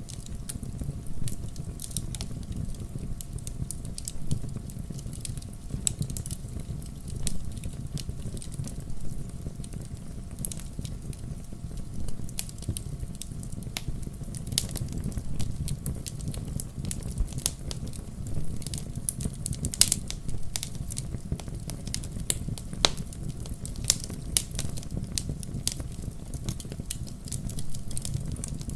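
Wood campfire crackling: frequent irregular sharp pops and snaps over a low steady rumble of the burning fire.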